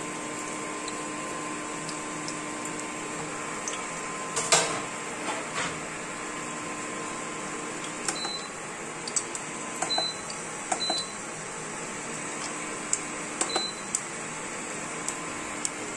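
Chicken chops sizzling in hot mustard oil, a steady hiss with scattered pops and one louder pop about four and a half seconds in. An induction cooktop hums steadily and gives four short beeps in the second half as its buttons are pressed; its hum stops after the last beep.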